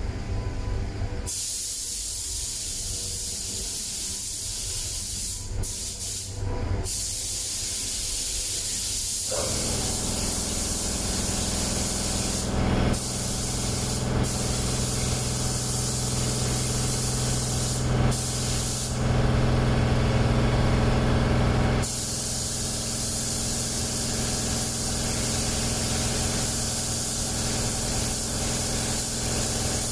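Primer being sprayed onto a car body panel: a steady hiss of spray that stops briefly several times as the trigger is let off and then resumes. About a third of the way in, a steady low machine hum joins it.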